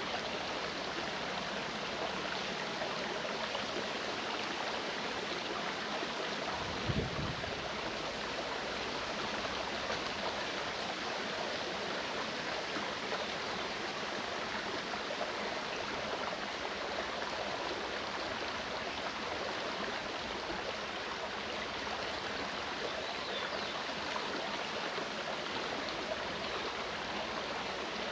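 Clear mountain stream running steadily over rocks, an even rushing and babbling. About seven seconds in there is one short low bump.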